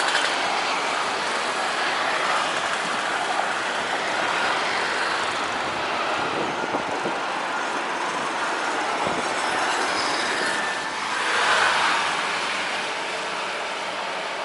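Jet airliner on landing: a steady engine and air noise that swells briefly about eleven seconds in.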